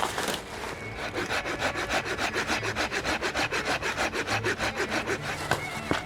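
Hand saw cutting through firewood, with quick, even back-and-forth strokes that start about a second in and stop shortly before the end.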